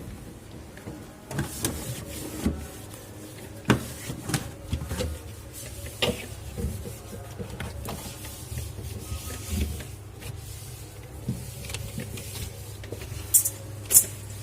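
A dry cloth rubbing and wiping soap off a removed fridge part, with irregular knocks and clicks as the part is handled, and two sharp clicks near the end. A steady low hum runs underneath.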